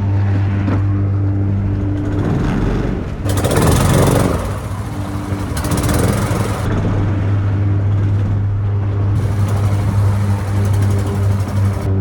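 Jon boat's small outboard motor running hard under way, a steady low drone, with a loud rushing surge of noise about three to four seconds in and rougher stretches later.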